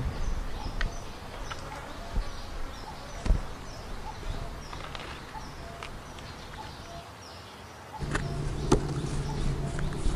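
Small birds chirping in short repeated calls over a faint outdoor background, with a few soft thuds. About eight seconds in the background changes suddenly to a low steady hum with a few clicks.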